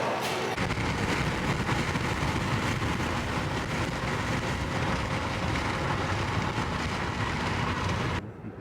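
Steady rumble and road noise of a moving vehicle, cutting off suddenly near the end.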